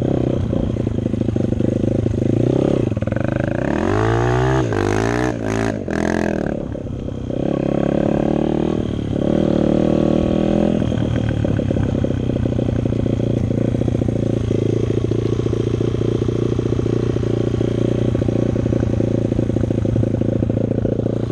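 Dirt bike engine running, its revs rising and falling several times about four to six seconds in, then settling to a steady note.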